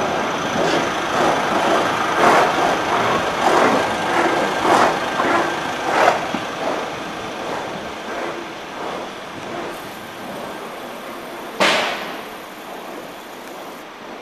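Wengernalpbahn electric narrow-gauge train pulling out, its wheels clacking over rail joints and points in irregular knocks and its rumble fading as it moves away. Late on, one sharp metallic clank stands out above the rest.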